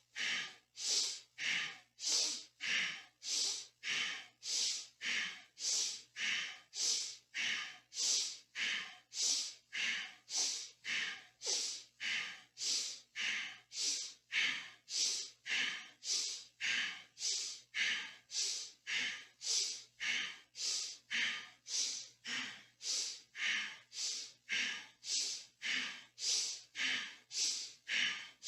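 A person breathing rapidly and rhythmically, a short hissing breath just under twice a second without a break. The inhales and exhales alternate in time with shoulder shrugs: inhale as the shoulders lift, exhale as they drop.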